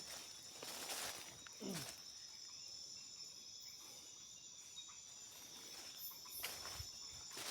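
Steady, high-pitched chorus of insects trilling without a break, with a few brief knocks about a second in and again near the end.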